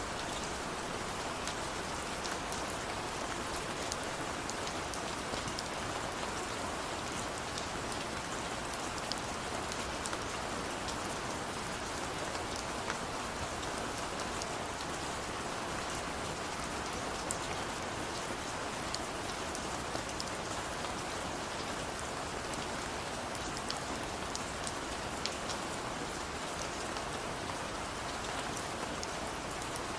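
Steady rain falling: an even hiss of rainfall with many small, sharp drop ticks scattered through it.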